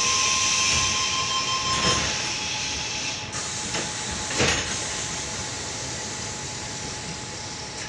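Interior sound of a Sydney Tangara electric train: a steady hiss with a thin high tone that stops about two seconds in. Two short knocks come about two and four and a half seconds in.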